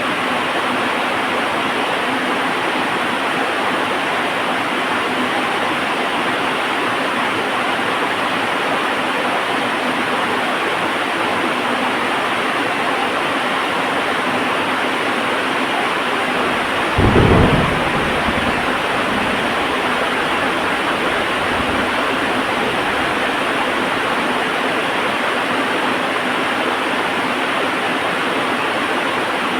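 Heavy rain falling steadily, with one thunderclap a little past halfway that rumbles on for a few seconds before fading back into the rain.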